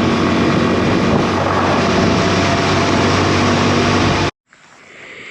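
Yamaha XTZ 250 single-cylinder motorcycle riding at speed: a loud, steady rush of wind on the microphone with the engine's hum underneath. It cuts off abruptly about four seconds in, leaving only a faint, quiet background.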